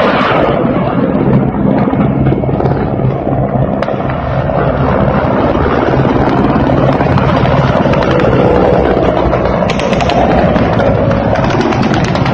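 Combat noise of a helicopter attack: a dense, continuous rumble of low-flying attack helicopters and gunfire. A run of rapid, sharp shots builds near the end.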